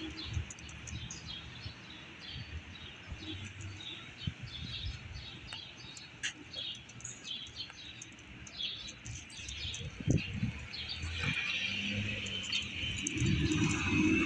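Small birds chirping repeatedly in short, high notes. From about eleven seconds in, a car's engine and tyre noise grows louder as it approaches along the street.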